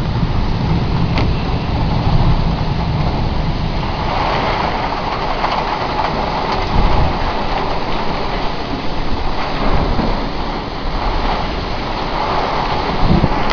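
Heavy downpour with squally wind: a steady hiss of rain, with gusts buffeting the microphone in a low rumble that is heaviest at the start and swells again near the end.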